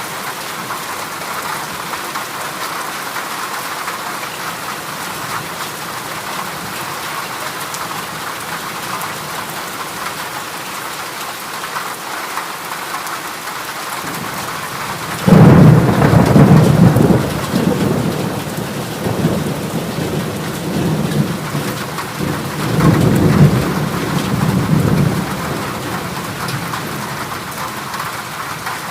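Heavy rain falling steadily on a corrugated metal roof. About halfway through, a loud rumble of thunder breaks in suddenly and rolls on for several seconds, with a second swell of rumbling a few seconds later.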